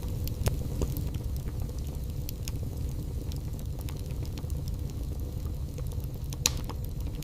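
Wood burning in a fireplace: a steady low rumble of the fire with scattered small crackles and pops, and one sharper pop near the end.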